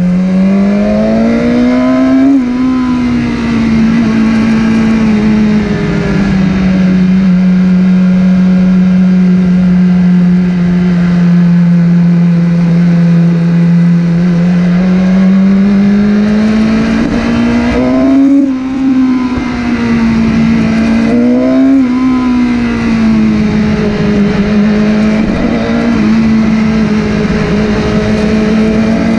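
Motorcycle engine running under way. It speeds up and drops back at once about two seconds in, as on a gear change, then holds a steady pitch for a long stretch. It speeds up and drops back twice more about two-thirds through, and rises again near the end.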